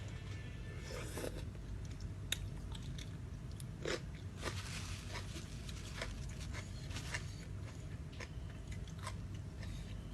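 A person chewing and biting crunchy food, crispy squid in a spicy rice-noodle salad, with irregular crunches throughout over a steady low hum.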